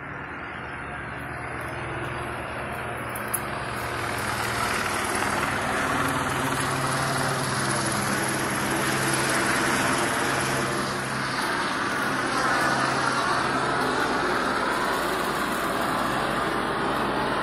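Steady vehicle engine noise with a low hum, growing louder over the first few seconds and then holding steady, with a single sharp click about three seconds in.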